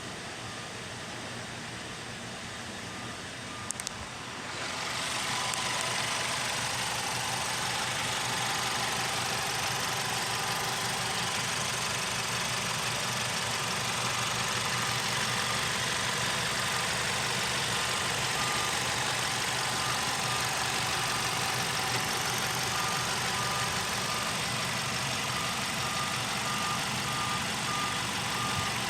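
Volkswagen Passat engine running steadily at idle. About four and a half seconds in, the sound grows louder and then holds even, after a couple of light clicks.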